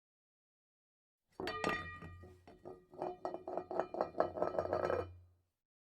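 A quick run of light clinks with ringing tones, growing denser partway through, over a low hum; it starts suddenly and stops suddenly.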